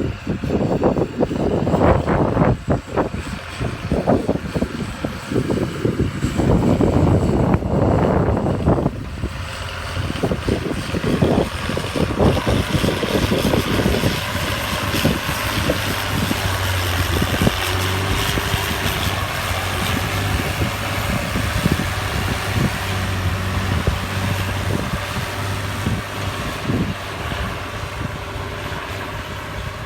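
Tractor engine running steadily. For roughly the first nine seconds, irregular loud thumps and knocks sound over it, then the engine runs on alone.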